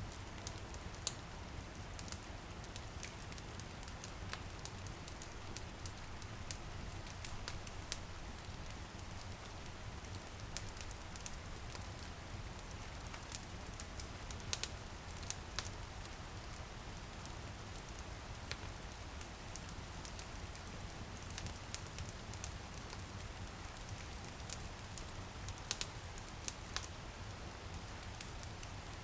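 Wood fire crackling in a fireplace, with irregular sharp pops and snaps over a steady low rumble, mixed with the soft patter of light drizzle on a window.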